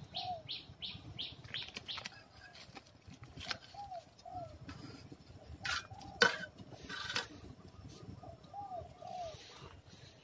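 Birds calling: repeated pairs of short arched notes and a quick run of high chirps in the first two seconds. A few sharp knocks come in the middle, as metal tongs feed the stove, over a low rushing background.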